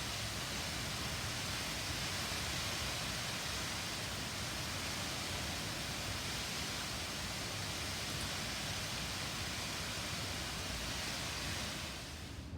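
Steady hiss of falling rain, even and unbroken; near the end the higher part of the hiss drops away abruptly.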